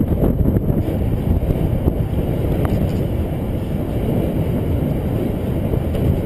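Steady loud wind buffeting on the microphone of a camera carried on a moving bicycle, a low rumbling roar of rushing air.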